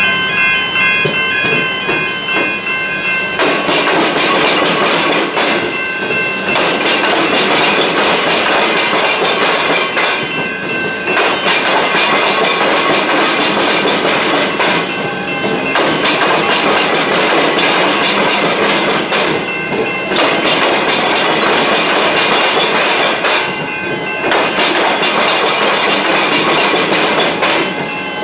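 Electric suburban train passing through the rail–tram level crossing, a steady rumble and clatter of wheels on rail. High steady tones stop about three seconds in.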